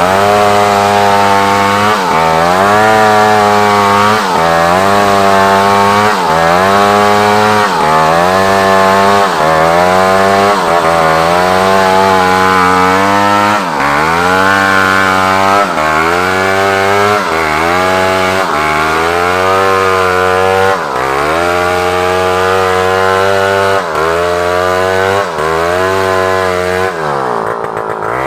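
Large chainsaw cutting African wood (Maesopsis) timber, its engine pitch dipping under load and recovering again about every second or so as the chain bites. Near the end the engine slows right down, then revs back up.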